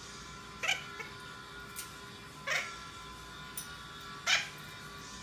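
Noble macaw giving three short, rising, meow-like calls about two seconds apart, with a few fainter chirps between.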